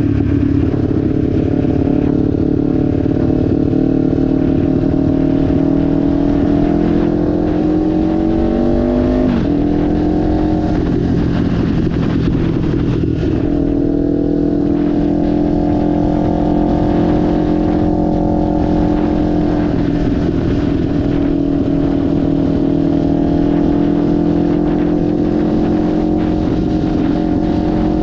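Kawasaki Ninja 500 parallel-twin motorcycle engine pulling under acceleration, its pitch rising for about nine seconds before the revs drop sharply at a gear change. It then settles into a fairly steady cruising note that climbs only slowly.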